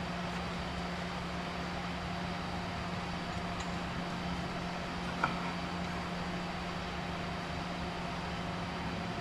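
A steady background hum with a single light click about five seconds in.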